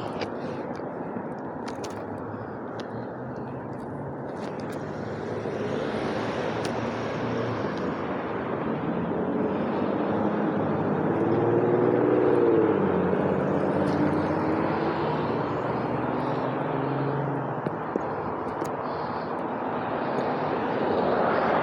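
Steady outdoor traffic rumble that swells to its loudest about halfway through as a vehicle passes, then fades back.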